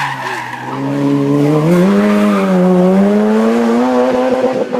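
Hill-climb race car engine running hard under load; its note dips early, then rises about one and a half seconds in and holds high as it gets louder.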